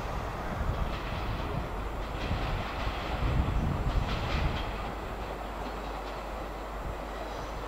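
A train running along the track with a steady rumble, its wheels clicking over rail joints a few times around the middle.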